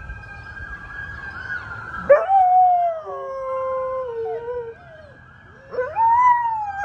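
A dog howling along with a wailing siren. The siren is faint at first. About two seconds in comes a long howl that falls in pitch, and near the end a second, wavering howl begins.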